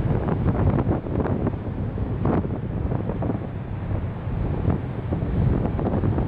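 Wind buffeting the camera microphone in gusts, over a low steady rumble from the ferry and the sea beneath it.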